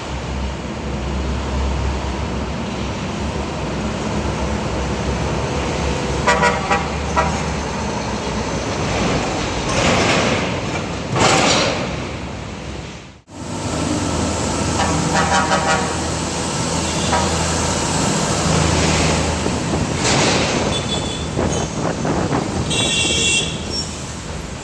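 Heavy road traffic: large diesel trucks running past with a steady low rumble, and vehicle horns honked several times. The sound cuts out for an instant about halfway through.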